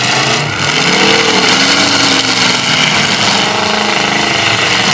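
Demolition derby cars' engines running and being revved, the pitch rising and falling unevenly.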